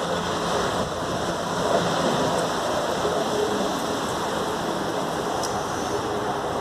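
Strong wind blowing steadily ahead of an approaching rainstorm, a dense rushing noise with slight swells.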